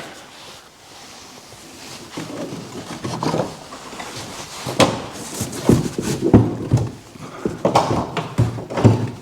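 Irregular knocks, thuds and scrapes as a BMW E46 fuel tank is pushed and shifted while being worked out from under the car. The bumps come most often in the second half.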